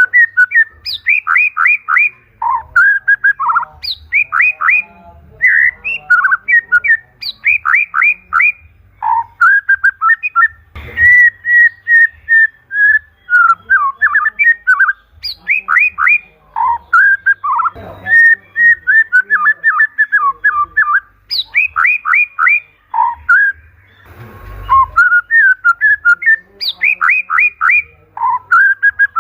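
White-rumped shama (murai batu) in full song: loud, varied whistled phrases without pause. Quick runs of four or five falling notes recur every few seconds, between longer chattering trills.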